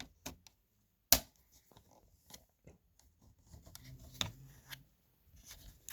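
Screwdriver prying at the edge of an Acer laptop keyboard: one sharp plastic click about a second in, then light scraping and small clicks.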